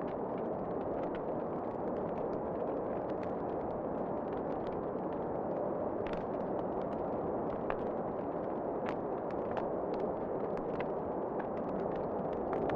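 Wood fire crackling in a fireplace, with scattered sharp pops at irregular moments over a steady rushing wind.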